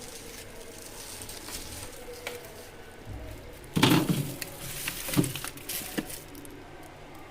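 Frozen packs of fish being set into a fridge's freezer compartment: a burst of crackling plastic and clatter about four seconds in, then a few sharp knocks as packs are placed on the shelf.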